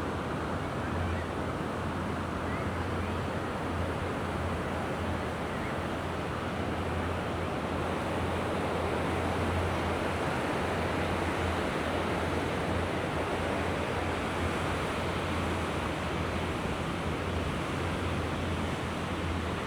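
Mediterranean sea waves washing ashore in a steady, even surf, with wind rumbling on the microphone.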